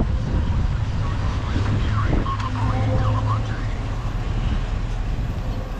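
Steady low rumble of wind and road noise while riding, with short chirping squeaks over it.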